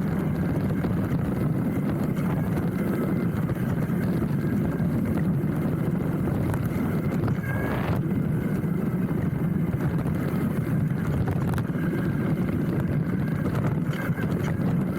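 Hardtail mountain bike rolling down a dirt trail: a steady rumble of tyres over the ground, with the frame and handlebar rattling straight into the bar-mounted camera.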